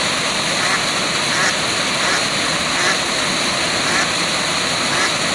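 Waterfall rushing steadily, with faint short calls breaking through every second or so.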